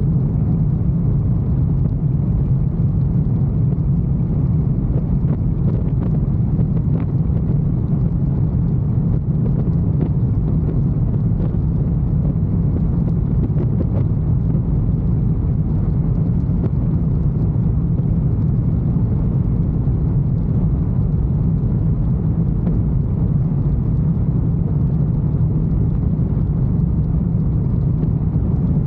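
Motorcycle engine running steadily at cruising speed, a constant low drone mixed with road noise.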